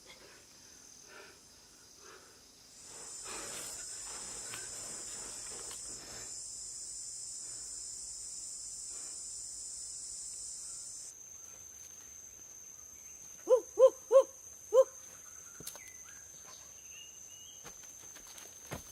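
Insects shrilling steadily in a high, continuous chorus that thins to a single high note about halfway through. Near the end, four short low hooting calls in quick succession stand out above it.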